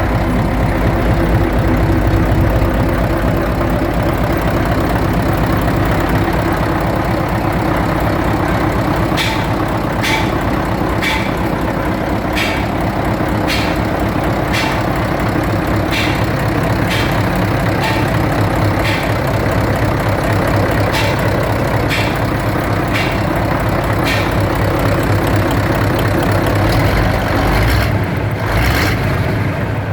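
Mitsubishi 8DC9 V8 diesel engine running steadily on test. A sharp tick comes about once a second through the middle stretch.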